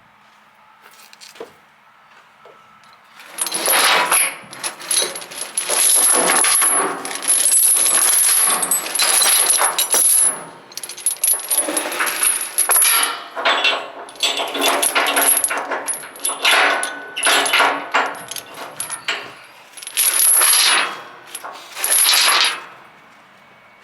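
Steel tie-down chain rattling and clinking as it is pulled and handled, link on link, in a run of loud jangling bursts that starts about three seconds in and stops shortly before the end.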